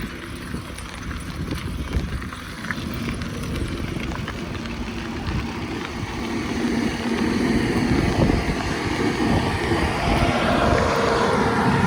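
Wind buffeting the microphone of a camera carried on a moving bicycle, a steady low rumble that grows louder over the second half.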